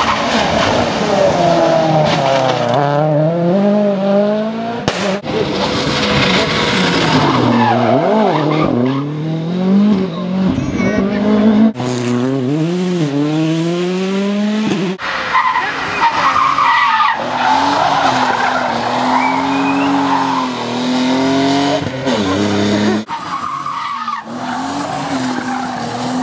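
World Rally Cars with 1.6-litre turbocharged four-cylinder engines revving hard, their pitch climbing and dropping through gear changes, with tyre squeal as they skid through corners. It comes as several separate passes cut together, the sound changing abruptly a few times.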